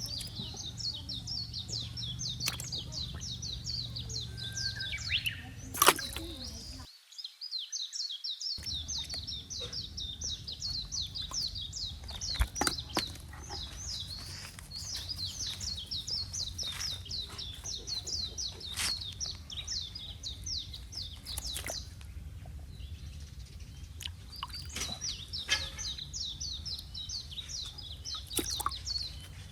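A bird calling in long runs of fast, high, repeated chirps that break off twice, over a steady low rumble and a few scattered knocks.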